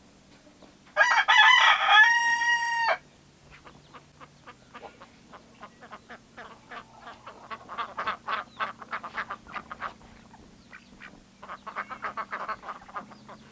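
A rooster crows once, about a second in: a broken start, then a held final note. After it comes a long series of soft, quick clicks and short sounds.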